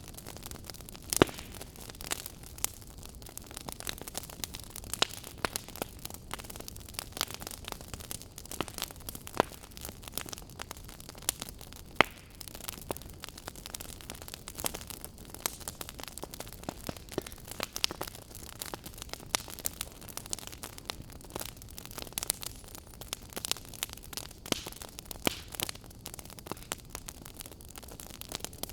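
Fire crackling: a steady hiss with frequent, irregular sharp pops and snaps, two louder pops standing out, about a second in and about twelve seconds in.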